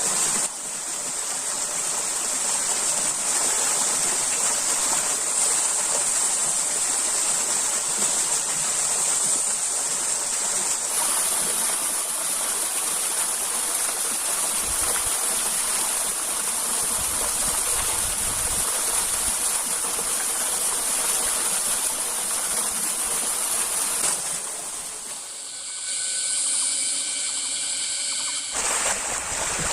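Forest stream water rushing steadily. Near the end the rushing drops away for about four seconds and several steady high tones are heard instead.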